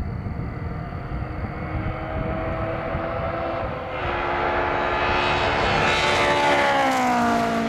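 Honda S2000's F20C four-cylinder engine, breathing through a catless exhaust, at speed as the car approaches: it grows louder from about four seconds in, then its pitch drops about seven seconds in as it passes by.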